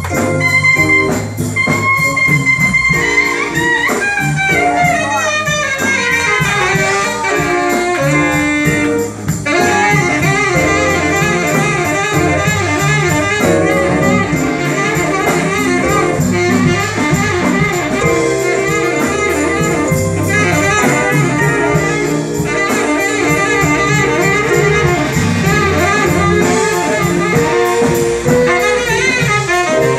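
Live jazz band playing, a horn soloing in held notes and quick descending runs over a steady drum-kit rhythm.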